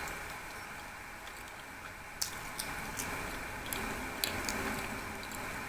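Close-miked chewing of a moist blueberry muffin: soft wet mouth sounds with a few sharp clicks, about two, two and a half, three and four and a quarter seconds in.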